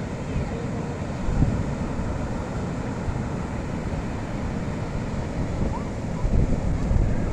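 Wind buffeting the microphone over a steady rush of rough sea, with stronger gusts about a second and a half in and again near the end.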